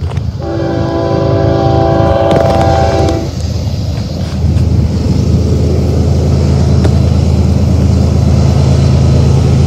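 BNSF diesel locomotives approaching with the horn sounding a chord of several notes for about three seconds, then the low rumble of the diesel engines, growing slightly louder as the train nears.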